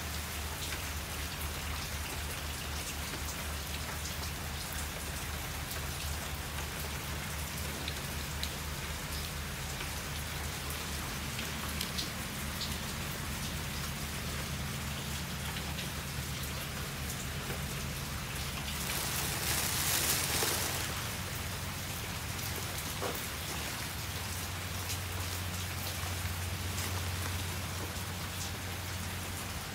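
Steady rain falling, with scattered drops ticking on a surface and a brief heavier swell about two-thirds of the way through. A low steady rumble runs beneath it.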